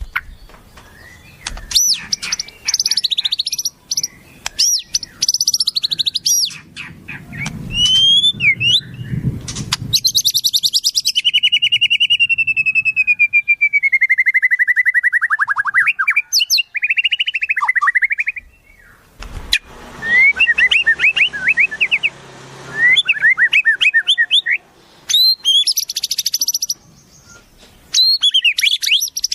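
Wild songbirds singing: a busy mix of sharp whistles, chirps and rapid trills, with a long trill that falls in pitch about ten seconds in and quick runs of short rising notes later on.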